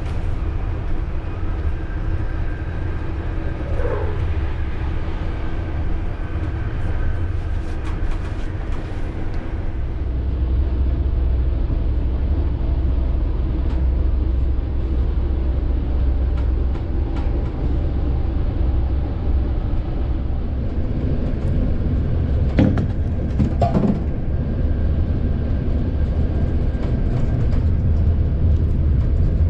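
Passenger train in motion: a steady low rumble of wheels on the track that grows somewhat louder about a third of the way in, with a few brief squeals about four seconds in and twice more later on.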